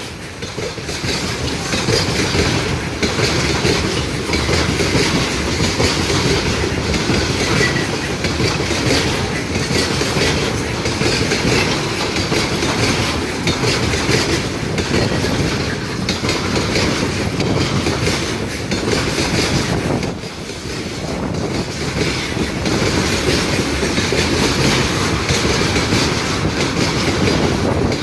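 A train's wagons rolling past at speed, the wheels clattering steadily over the rail joints, with a brief drop in loudness about 20 seconds in.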